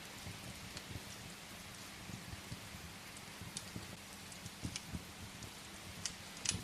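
Steady rain with scattered sharp crackles from a wood fire, a few louder pops, the loudest near the end.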